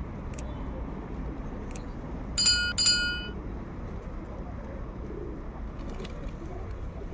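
Pigeons cooing against a steady low background hum, with a few sharp clicks. About two and a half seconds in comes a loud, high-pitched two-part squeal lasting under a second, the loudest sound here.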